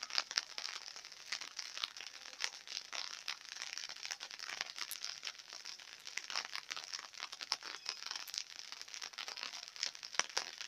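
Light rain falling, a steady crackle of many small drop ticks.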